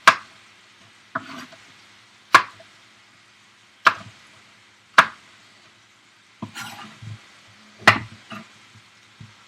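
A knife chopping bell pepper on a cutting board: about eight sharp, separate strikes, roughly one a second. The faint sizzle of chicken browning in a frying pan runs underneath.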